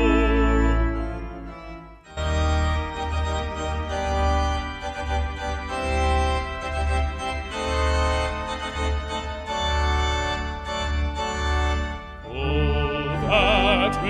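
Brass ensemble of trumpets, trombones and French horn playing a hymn interlude. A held chord fades away at first, then the brass comes back in about two seconds in over a pulsing bass line. Near the end a baritone voice comes back in, singing with a wide vibrato.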